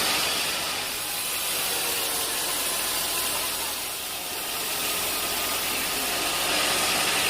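Band sawmill running: a steady machine hum under an even, high hiss.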